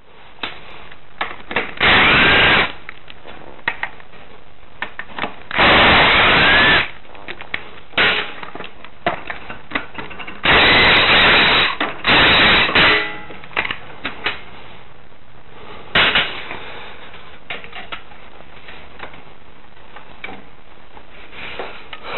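A power tool run in short bursts of about a second, four times with a brief fifth near the end, with clicks and clinks of tools and parts in between.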